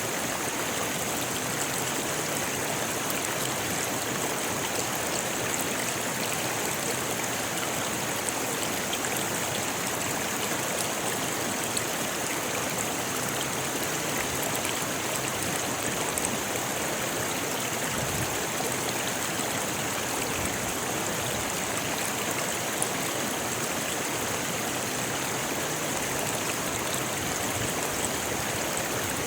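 Rocky river flowing, a steady rush of water over stones.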